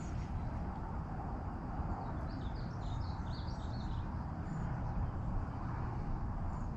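A songbird sings a quick run of short, high chirping notes from about two seconds in, lasting around two seconds, over a steady low outdoor rumble.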